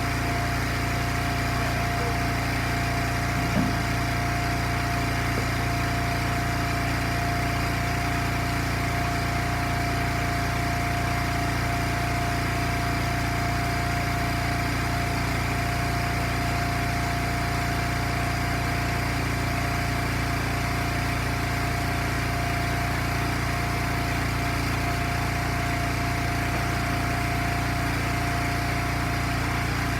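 Small gas engine of an Eastonmade log splitter running at a steady speed, with one short knock about three and a half seconds in.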